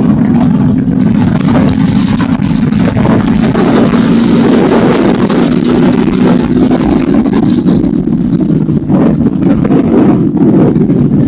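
Motorcycle engine running loudly and steadily, swelling a little in the middle.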